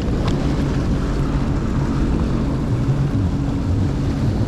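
Jet ski engine running steadily at slow cruising speed, a low hum with a hiss of water and wind over it.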